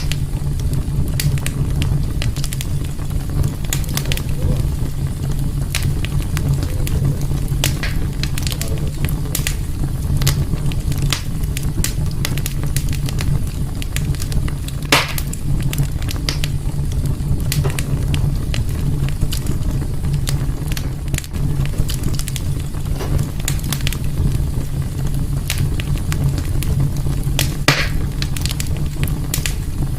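Wood fire crackling in a wood stove, with scattered sharp pops over a steady low rumble.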